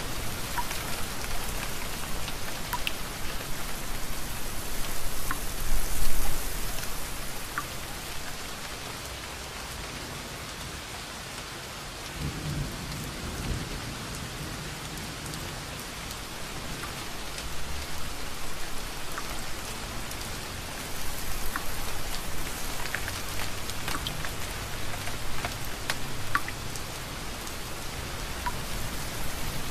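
Steady rain falling, with scattered sharp drips, a loud swell about six seconds in and a low rumble of thunder around the middle.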